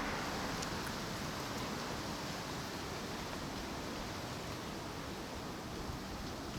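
Strong wind blowing: a steady rushing noise with leaves rustling.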